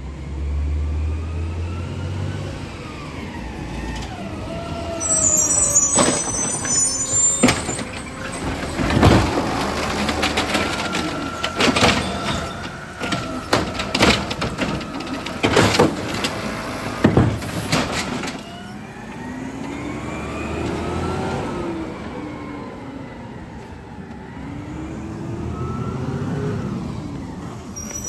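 Garbage truck running, its engine and hydraulics rising and falling in pitch, with a long run of loud bangs and clatter in the middle.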